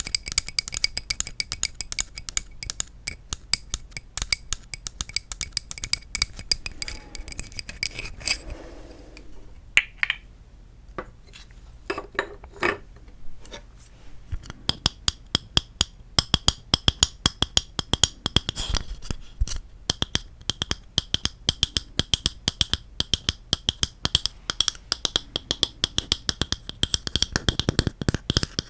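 Rapid fingertip-style tapping on hard wooden objects, several taps a second, each with a short ring. About nine seconds in, the tapping slows to a few separate knocks, then picks up fast again on an object that rings at a slightly higher pitch.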